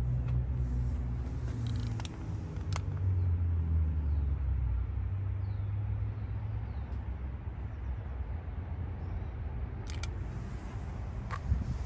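1986 Porsche 911's air-cooled flat-six running just after a cold start: a steady low engine note that grows rougher and less even after about six seconds, with a few sharp clicks.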